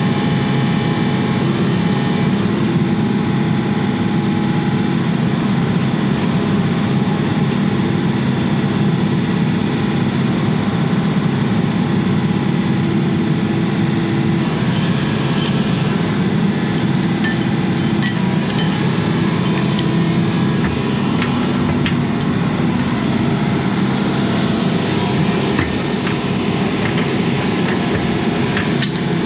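Diesel engine of a piece of heavy construction equipment running steadily under work. From about halfway on, scattered metallic clinks and squeaks come in over it.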